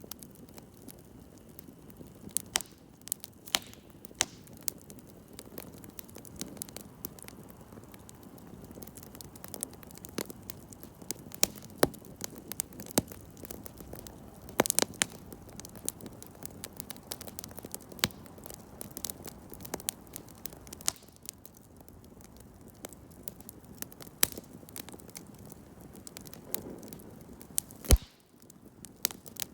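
Campfire crackling, with irregular sharp pops and snaps of burning wood over a low steady hiss; one loud pop near the end.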